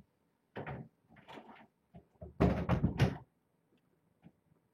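A door being handled and shut: a few short knocks and clatters, the loudest a couple of seconds in, then a couple of faint ticks.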